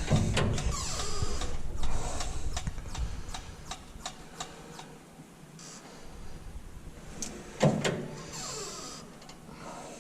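Irregular light clicks and knocks from hands and tools at work, with one louder thump about three-quarters of the way through.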